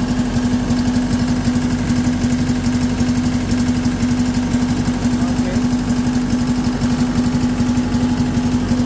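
Cat 317 D2 wheeled excavator's 4-cylinder diesel engine running at a steady speed with a rough, even pulsing, misfiring and shaking. The engine is also smoking, and the fault is being traced to a damaged injector.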